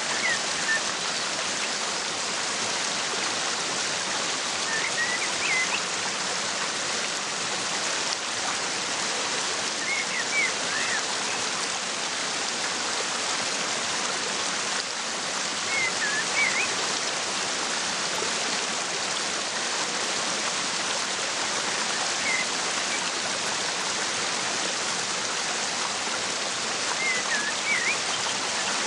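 Waterfall rushing steadily, with a bird's short high chirps coming in small groups about every five to six seconds.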